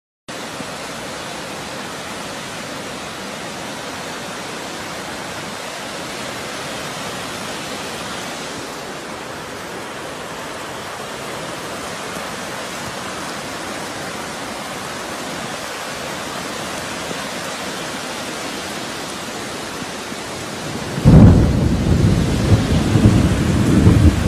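Steady heavy rain; about three seconds before the end a loud, low rumble of thunder breaks in and keeps rolling.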